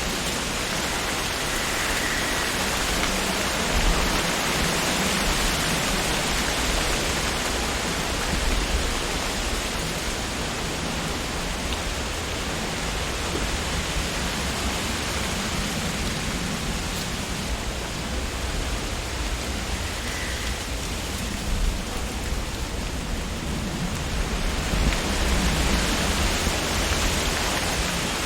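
Wind blowing through tree leaves: a steady rustling hiss that swells in gusts and eases, with a low rumble underneath.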